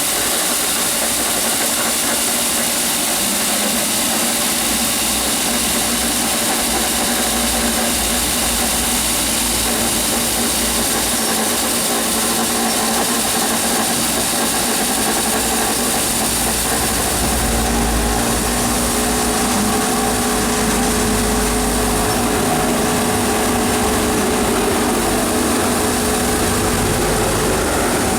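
Battery-powered ride-on floor scrubber running: a steady whir from its brush and vacuum motors over a high hiss. Its low hum grows stronger a little past halfway.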